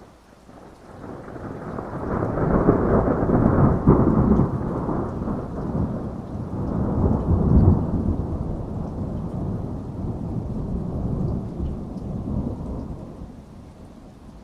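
A long roll of thunder during a rainstorm. It builds over the first couple of seconds, rumbles on with two loud swells, then dies away near the end, over faint steady rain.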